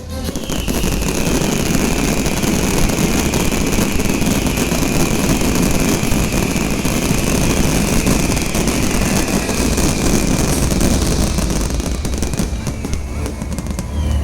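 Fireworks finale barrage: a dense, continuous rattle of rapid bursts with no breaks, mixed with show music. A long high tone slowly falls in pitch through it.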